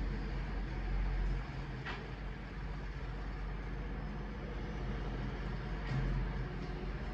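Garbage truck's diesel engine running steadily with a low rumble, with a brief hiss about two seconds in.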